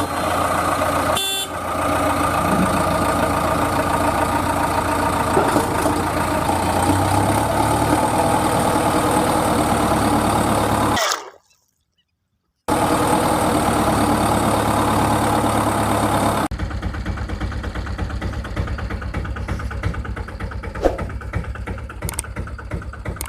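Steady engine running noise with a continuous hum. It cuts out abruptly to silence for about a second and a half near the middle, comes back, then changes to a thinner, rattlier running sound about two-thirds of the way through.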